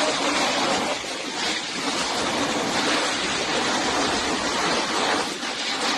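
Heavy rainstorm: a steady rushing hiss of downpour.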